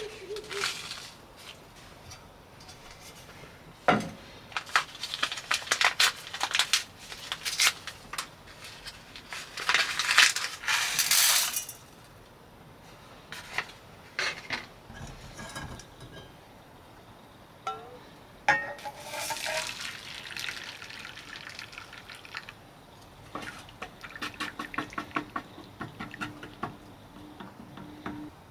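Dishes, pots and utensils being handled: irregular clinks, knocks and scraping, with some water or liquid sounds. The loudest scraping comes about ten seconds in.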